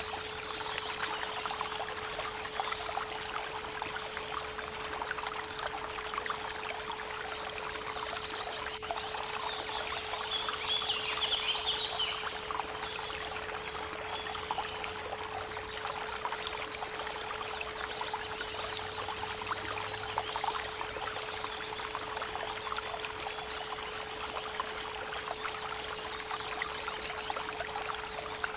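A creek babbling steadily, with birds chirping now and then, under a steady 432 Hz pure tone that is held throughout.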